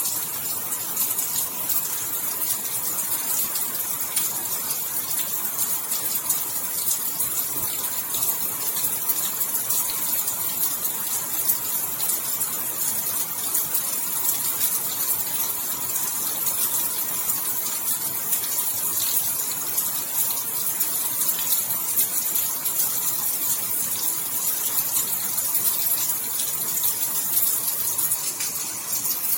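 Steady rain falling, a dense hiss of many fine drops with no let-up.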